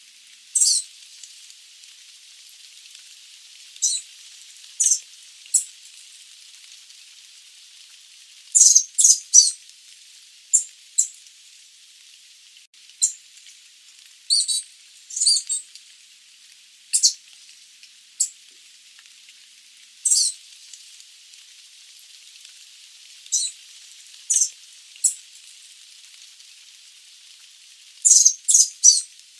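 Sooty babbler calling: short, sharp, high-pitched notes at irregular intervals, some in quick runs of two to four, over a steady hiss.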